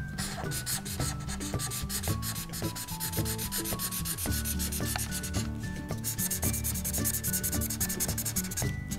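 Felt-tip marker scribbling on paper in quick back-and-forth strokes, colouring in a shape, with soft background music underneath.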